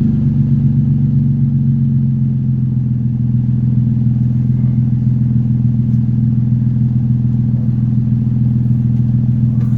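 2006 Infiniti G35's 3.5-litre V6, warmed up, running through an ISR dual blast pipe exhaust, a steady drone held at one constant engine speed.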